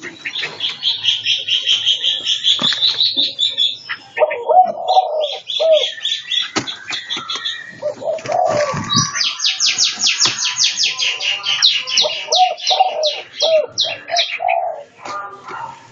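Several caged birds calling at once: high chirps and fast trilling songbird phrases over repeated low cooing of doves.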